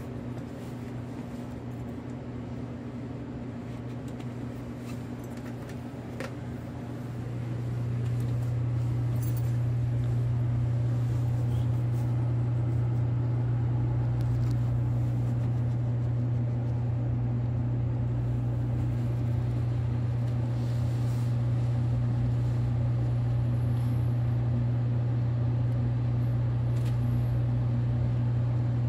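Steady low hum inside the passenger car of an electric limited express train, which grows louder about seven seconds in and then holds steady.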